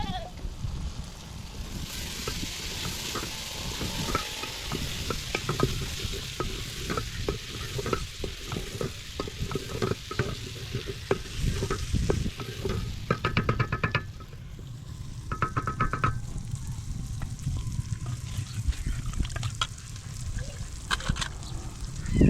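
Food frying and sizzling in a pan while it is stirred, with a spoon repeatedly scraping and tapping against the pot. Two short high-pitched chirps come at about 13 and 15 seconds in.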